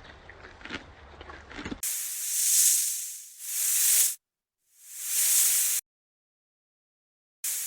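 Faint background ambience, then a series of edited hissing sound effects about two seconds in: three close bursts, the first swelling up, each cut off sharply, with dead silence between. Another burst comes near the end.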